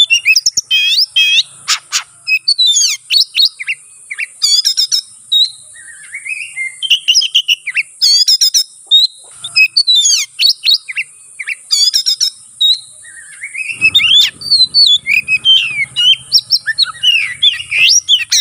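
Oriental magpie-robin singing a fast, nearly unbroken stream of varied chirps, trills and whistles, its excited fighting song full of mimicked phrases, thinning briefly about six seconds in. A steady high hiss runs underneath.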